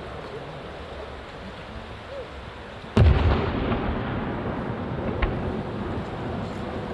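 An aerial firework shell bursts with a sudden loud boom about three seconds in, its deep rumble echoing and fading away. A smaller sharp crack follows a couple of seconds later.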